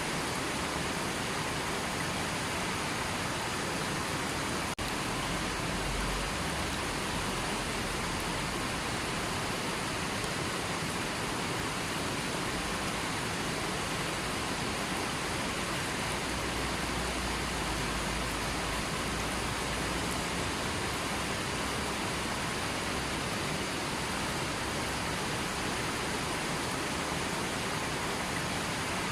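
River water flowing: a steady, even rush with no change, broken only by a momentary dropout about five seconds in.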